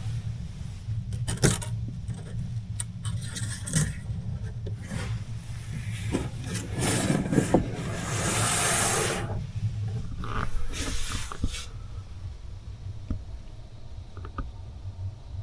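Strong wind buffeting a parked kei van, heard from inside the cabin: a steady low rumble with irregular ticks and knocks, and a longer rush of wind noise about seven seconds in.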